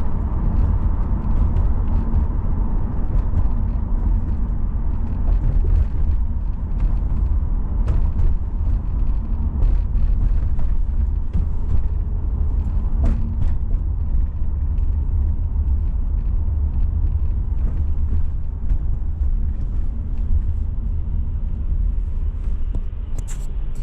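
A car driving, heard as a steady low rumble of road and engine noise, with faint scattered clicks over it.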